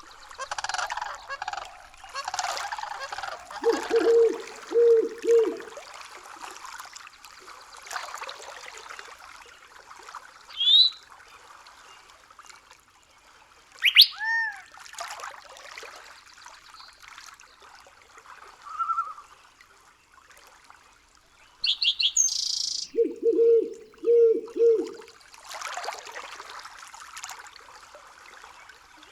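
Birds calling over trickling water. A low call comes in quick runs of three or four, twice, with a few higher chirps and falling whistles between.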